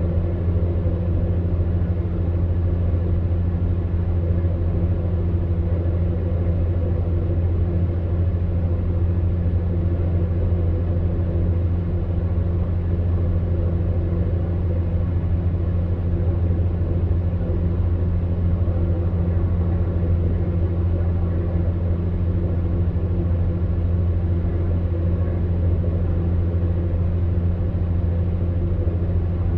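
Electric fan heater running steadily: an even low hum with a mains-like drone under a soft rush of blown air.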